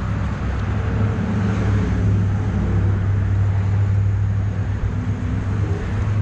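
A steady, low mechanical hum, like a running engine or machine, holding an even pitch throughout.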